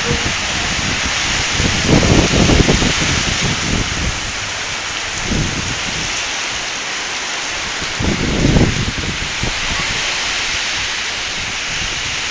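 Heavy thunderstorm rain pouring down in a steady loud hiss. Low rumbling surges come about two seconds in, briefly around five seconds, and again around eight seconds, like strong gusts buffeting the microphone.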